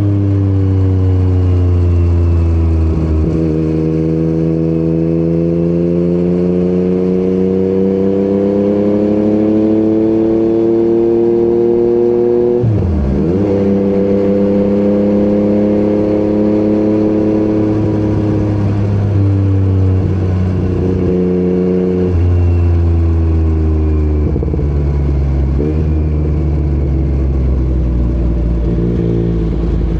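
Yamaha MT-09 inline-three engine with an Akrapovic exhaust, under way on the road. Its pitch climbs and sinks slowly with the throttle, and it breaks off briefly several times, as at gear changes.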